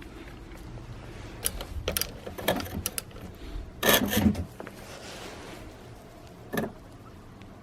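Irregular mechanical clicks and rattles of brush cutter parts being handled, with a louder brief rasping burst about four seconds in and a single click later.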